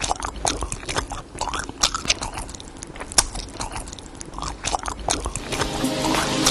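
A person biting into and chewing crispy grilled food, with many sharp, irregular crunches. Background music comes in near the end.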